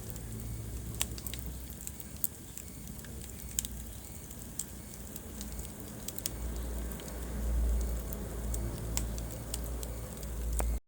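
Wood fire burning in a fireplace: a steady low rumble of flames with sharp, scattered crackles and pops every second or so. The sound cuts out abruptly for a moment at the very end.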